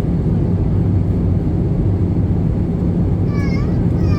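Steady cabin noise inside an Airbus A320-214 in flight: a constant low hum and rush from the CFM56 engines and airflow. About three and a half seconds in, a short high-pitched falling cry rises above it.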